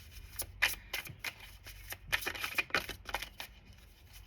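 Tarot cards being shuffled by hand: an irregular run of quick, soft card slaps and clicks, several a second.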